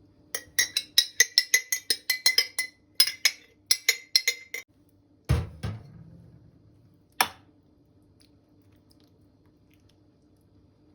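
A spoon clinking quickly and rhythmically against a glass, about four ringing clinks a second, as when stirring a drink. A heavier knock follows about halfway through as something is set down, then a single click.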